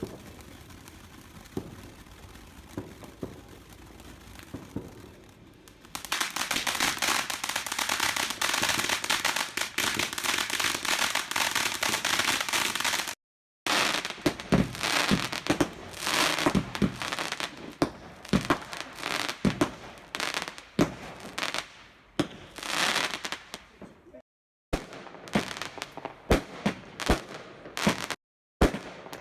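Fireworks: after a few seconds of quieter scattered pops, a dense crackling fizz runs for about seven seconds. Then comes a run of sharp bangs and crackles, broken by sudden cuts of silence between clips.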